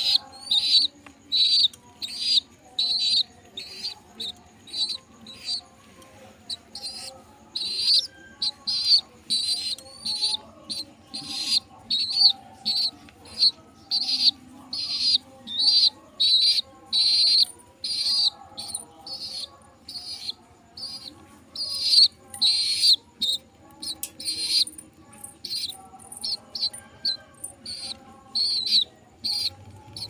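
A bird chirping over and over, short high chirps about two a second.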